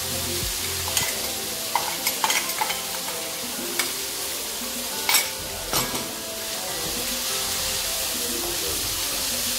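Sliced onions and ginger-garlic paste frying in oil in a non-stick kadai, a steady sizzle under a wooden spatula's stirring. Several sharp clicks are heard as a spoon knocks paste out of a mixer jar into the pan, the loudest about five seconds in.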